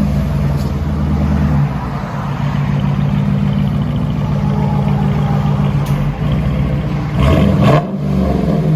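2020 Dodge Durango R/T's 5.7 L HEMI V8 running through a dual exhaust whose rear resonators are deleted and replaced with straight pipe, with the factory mid muffler kept. It idles steadily, then gives a short rev about seven seconds in.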